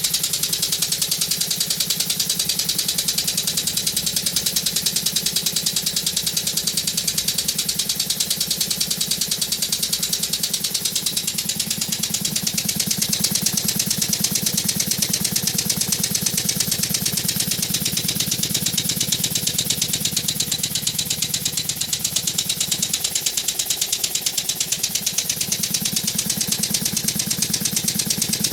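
Homemade single-cylinder model steam engine, built from a scrap air cylinder, running steadily with a fast, even chuffing rhythm, briefly weakening about two-thirds of the way through.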